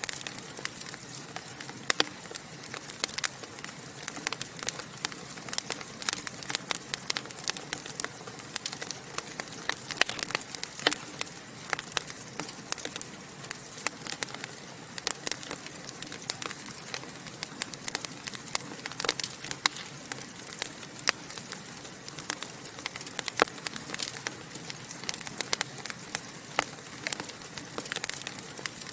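Wood fire burning in a fireplace, crackling and popping with many sharp snaps, several a second, over a steady hiss.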